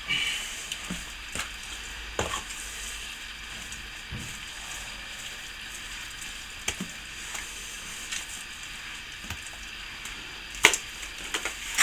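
Wet sand-and-plaster render being mixed by hand in a container: a steady gritty scraping and stirring with scattered small knocks, and one sharper knock near the end.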